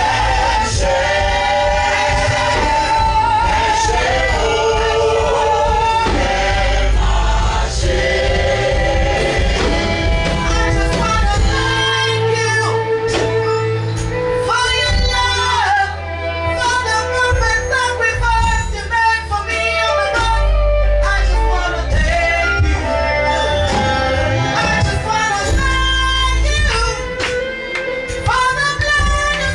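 Gospel worship music: voices singing over a band with a steady bass.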